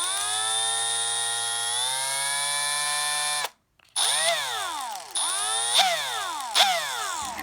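Milwaukee M12 Fuel brushless hammer drill/driver motor running in reverse. It spins up and runs steadily for about three and a half seconds, then cuts out abruptly. It follows with several short bursts that each rev up and wind straight back down. The drill is faulty, and the owner has no idea what is wrong with it.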